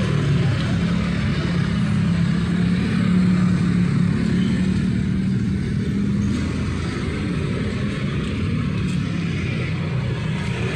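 Street traffic: motor vehicle engines running with a steady low hum over a wash of traffic noise.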